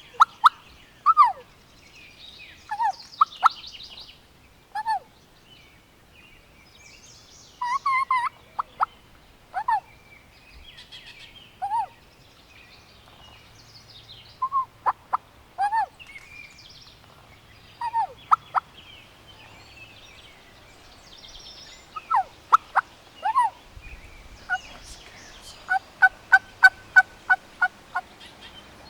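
Wild turkeys calling: sharp single calls and short clusters scattered throughout, then near the end a steady run of about nine evenly spaced calls, roughly three a second. Small birds chirp faintly behind.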